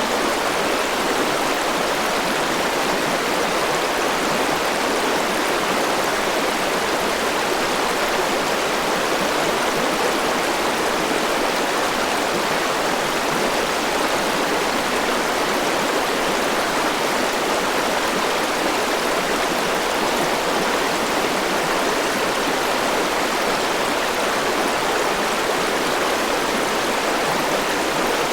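Forest river flowing over rocks: a steady rushing of water with no breaks or changes.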